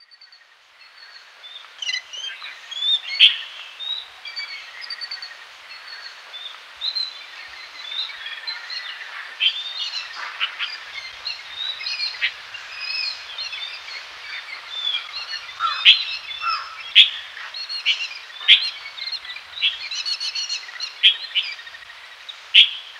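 Birds chirping and twittering in a busy chorus of short, overlapping calls, with a few sharper, louder chirps standing out now and then.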